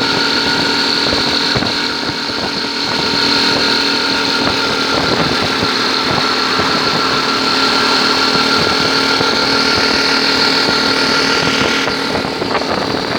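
Honda Cub motorcycle's small single-cylinder four-stroke engine running steadily while riding, over a constant rushing noise.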